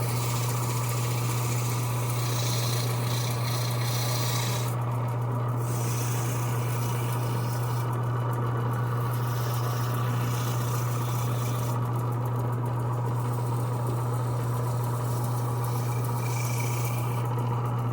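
Lathe running steadily with a strong low hum while a pedal handle spinning on a pen mandrel is sanded; a hissing scrape of the sandpaper rises and falls every few seconds.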